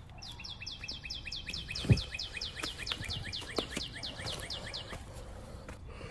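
A bird calling a fast run of short, falling notes, about six a second, that stops about five seconds in. A single thump about two seconds in is the loudest sound.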